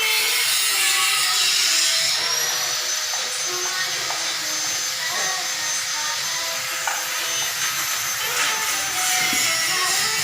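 Machinery running steadily with a high-pitched whine that rises slightly in pitch about two seconds in and falls back near the end.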